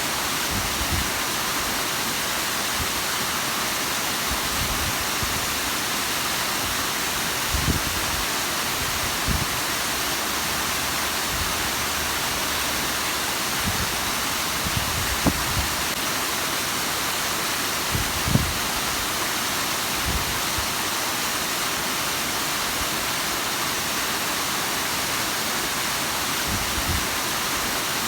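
Bigăr waterfall's water falling, a steady, even rushing hiss. A few brief low thumps break in now and then.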